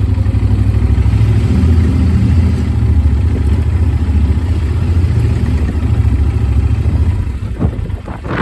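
Motorcycle engine running steadily under way, picked up by a phone mounted on the rider's helmet. The engine sound eases off about seven and a half seconds in, with a few short knocks.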